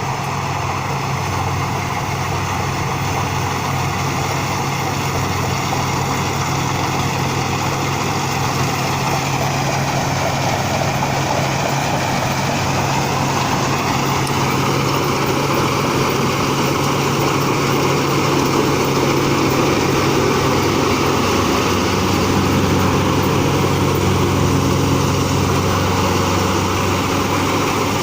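Rice combine harvester running steadily with a constant engine hum, its sound shifting slowly and growing a little louder in the second half.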